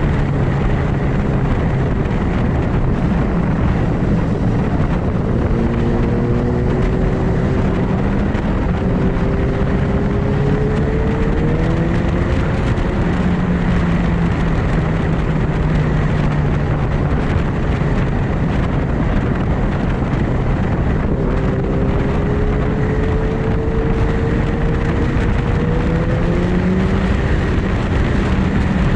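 Superbike engines running under dense wind and road rush. Twice the engine note climbs steadily as a bike accelerates: once from about five to twelve seconds in, and again from about twenty-two to twenty-seven seconds in.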